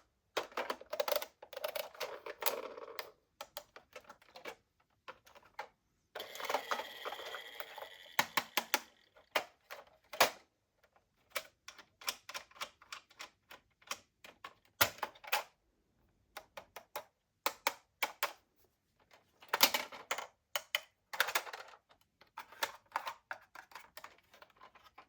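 Small toy cars being handled: a long run of light, irregular plastic clicks and clacks in quick clusters, with short pauses between them.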